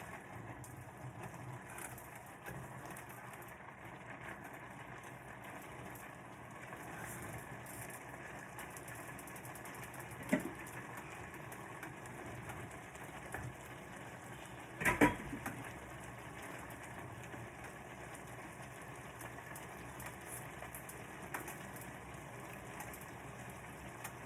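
Food cooking in a pan with a steady sizzling hiss, broken by a utensil knock on the pan about ten seconds in and a louder double clatter about fifteen seconds in.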